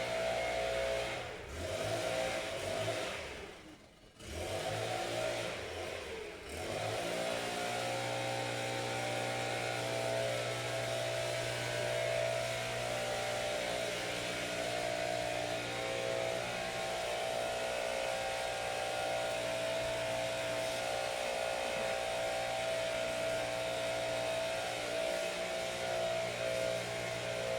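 Engine revving unevenly for the first several seconds, dropping off briefly about four seconds in, then running at a steady speed.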